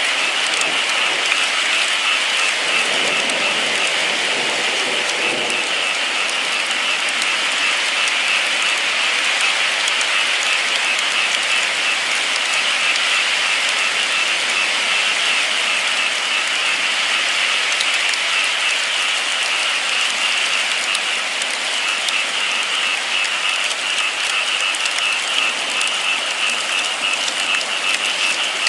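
Rain falling steadily, an even hiss scattered with the fine ticks of individual drops.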